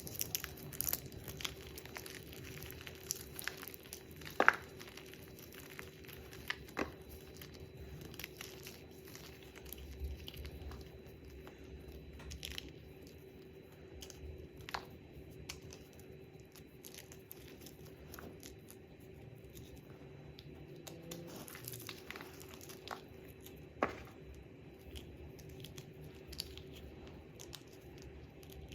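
Hard reformed gym chalk being crushed and crumbled by hand: scattered dry crunches and crackles, with a sharp snap about four seconds in and another late on, over a faint steady hum.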